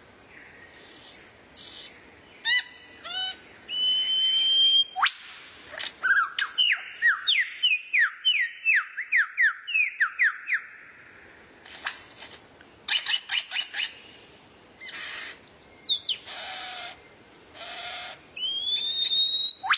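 Songbird song from a masteran tutor recording: clear rising whistles, a quick run of sharp downslurred notes, and harsh buzzy rasps between them.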